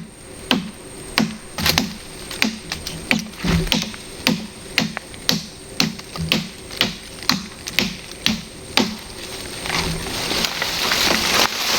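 A steady series of sharp knocks, about two a second, each with a dull thud, which stops about nine seconds in; a hiss then grows louder near the end.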